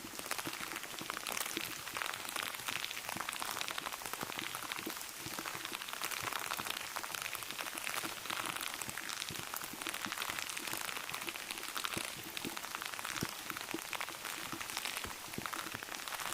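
Steady rain pattering, a dense run of small drop ticks over an even hiss, with no lull.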